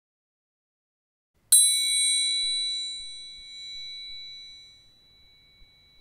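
A single high metallic ding, struck once about one and a half seconds in and ringing out over about three seconds.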